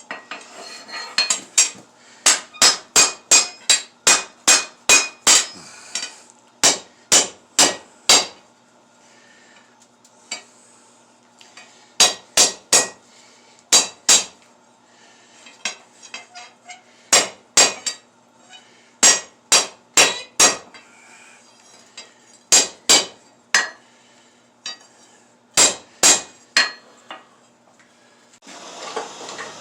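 Hand hammer striking hot steel on an anvil while drawing out a table leg: groups of sharp ringing blows, a bit under two a second, with short pauses between the groups. A steady rushing noise comes in near the end.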